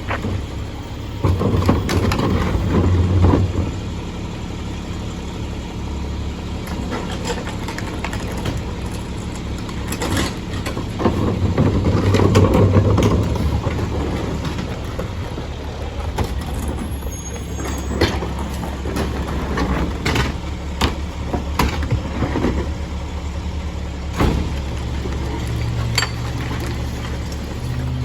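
Mack LE McNeilus garbage truck running with a steady low diesel rumble that swells louder twice. Scattered sharp knocks and clanks come in the second half.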